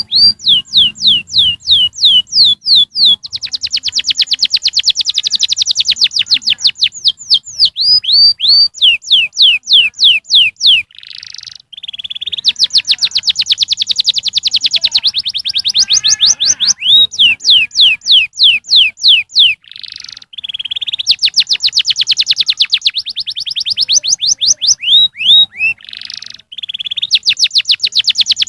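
Canary singing: fast rolling trills of rapidly repeated high notes, alternating with slower runs of sharp downward-sweeping notes, with brief breaks between phrases. This is a recorded song played to coax young canaries into singing.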